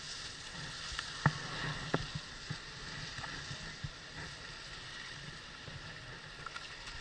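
Skis sliding over snow: a steady swish, with two sharp clicks about a second and two seconds in.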